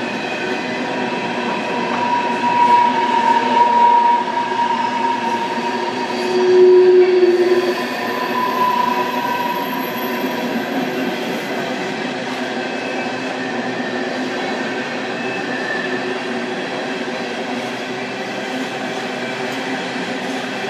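Freight train of empty-looking open hopper cars rolling steadily across a steel girder bridge overhead, a continuous rumble and rattle of wheels and car bodies. Short squeals from the wheels cut through a couple of times in the first half, the loudest about seven seconds in.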